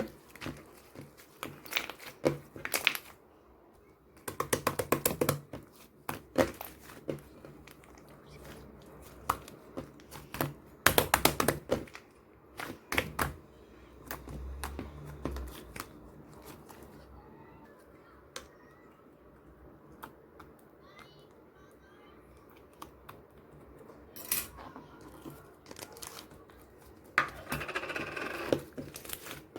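Slime being worked by hand: scattered sticky clicks and pops of trapped air, with a few bursts of rapid crackling and a low thud about halfway through.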